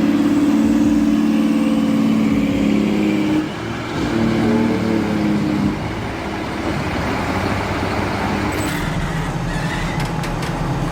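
Heavy machinery's engine running, its pitch and load shifting a few times.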